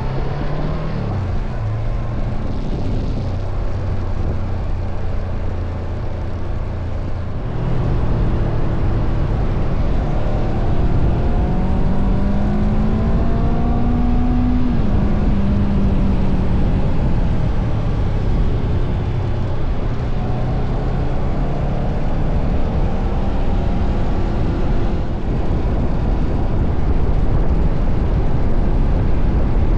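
Honda CBR500R's parallel-twin engine running under way, buried in heavy rumbling wind noise on the action-cam microphone. The engine note wavers up and down, and about halfway through it climbs steadily before dropping back.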